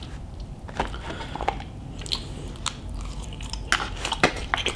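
Close-up eating sounds: wet chewing with irregular crunchy, crackly clicks as a mouthful of burrito and loaded fries is chewed.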